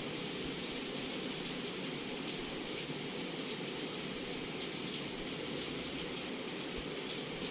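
Heavy rain falling steadily on window glass, an even hiss with scattered drip ticks. A single sharper, louder tick comes about seven seconds in.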